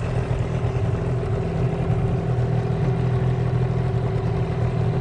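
Small boat's outboard motor running steadily under way, an even drone with no change in speed.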